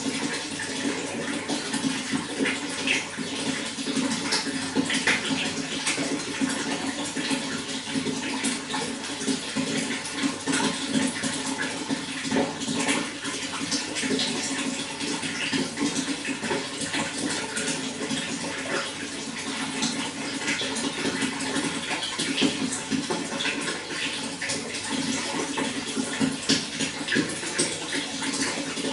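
Running water flowing and splashing steadily, with a deep gurgling rush and constant small bright splashes.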